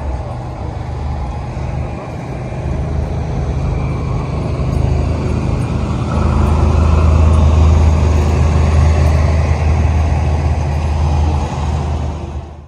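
Car engine running with a deep steady rumble, growing louder about halfway through.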